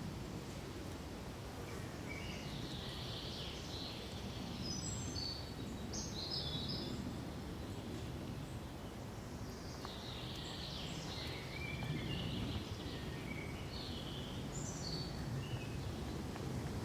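Small birds chirping and calling in short high notes, in two spells, about two to seven seconds in and again from about ten to fifteen seconds, over a steady low background rush of forest ambience.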